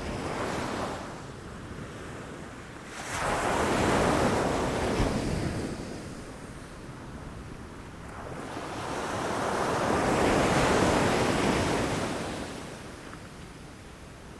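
Ocean surf breaking against rocks in rolling surges: one wave hits suddenly about a fifth of the way in, and another builds slowly to a peak about three-quarters through, with quieter wash between them.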